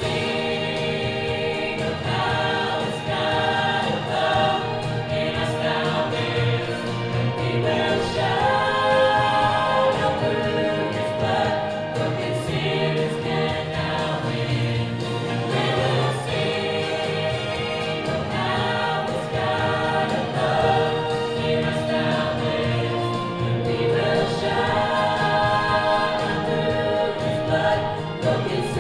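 Church choir singing, many voices holding sustained, shifting chords.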